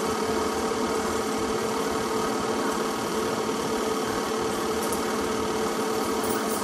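Steady mechanical hum with a constant mid-pitched tone and no change in speed.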